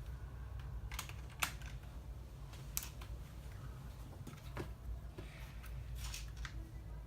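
LEGO pieces being handled and snapped together: a scatter of sharp plastic clicks, the loudest about a second and a half in, over a steady low hum.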